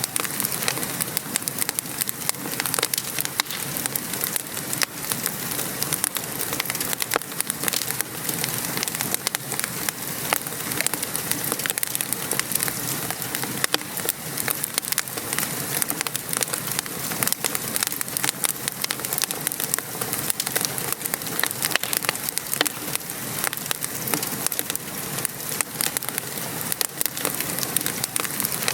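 Steady rain falling, with a wood fire crackling throughout in many small, sharp pops.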